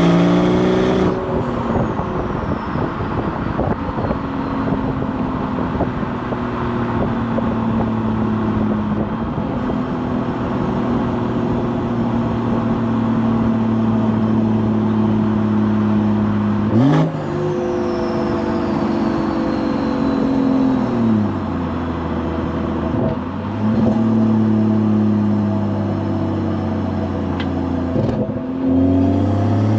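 BMW B58 turbocharged inline-six's exhaust with burble settings enabled: after a brief pull the revs fall slowly on overrun with a crackling burble, with quick rev blips on downshifts about two-thirds of the way through, then the engine pulls again near the end.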